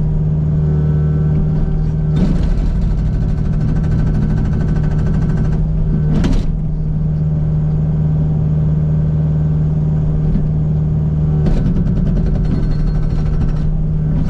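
Kubota U55 mini excavator's diesel engine running steadily, with its Agrotk 680 hydraulic breaker hammering hard rock in two bursts of rapid blows: one of about three seconds starting about two seconds in, and a shorter one near the end. A brief sharp noise comes between the bursts.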